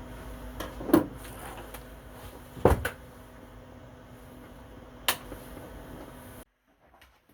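Three sharp knocks over a steady low hum, the second the heaviest; the sound cuts off abruptly near the end.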